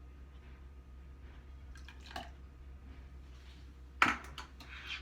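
Liquid, likely half and half, poured into a bowl of whisked eggs and milk, with a sharp knock about four seconds in followed by a few quick light clicks.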